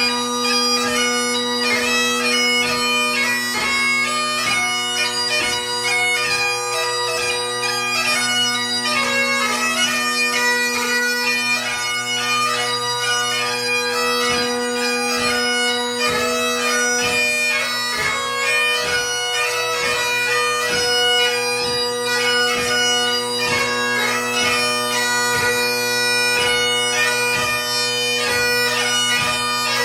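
Great Highland bagpipe played solo: the drones hold a steady low tone under the chanter's quick, heavily ornamented melody of light music.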